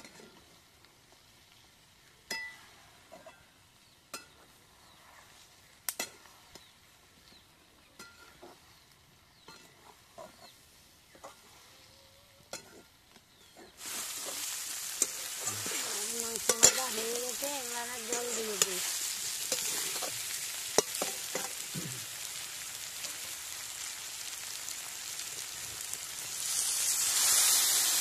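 Chicken pieces in turmeric masala frying in a metal wok, a steel spatula clicking and scraping against the pan as it stirs. The sizzle becomes a steady hiss about halfway through. Near the end water is poured into the hot pan, and the sizzle swells into a louder hiss of steam.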